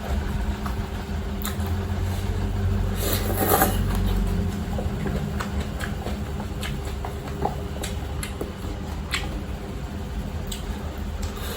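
Close-up eating sounds of spicy cup instant fried noodles being chewed: small wet mouth clicks scattered throughout, with a louder stretch of noise about three seconds in, over a steady low hum.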